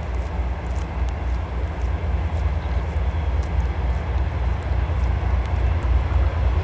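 2M62U diesel locomotive's two-stroke diesel engines running with a deep, steady low drone, growing slowly louder as the train approaches.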